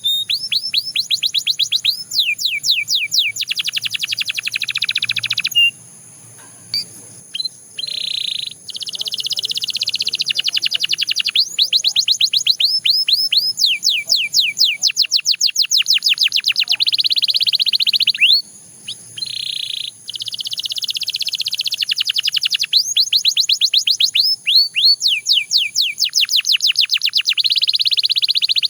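Canary singing in rapid trills: long runs of quickly repeated falling notes, changing from one run to the next, broken by short pauses twice.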